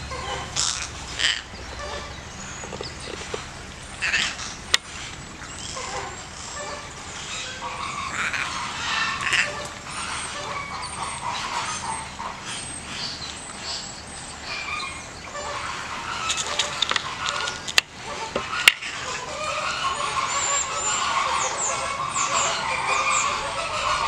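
Small birds chirping in short, high calls, thickest near the end, over a steady background hubbub. Three sharp clicks stand out, one about five seconds in and two close together near eighteen seconds.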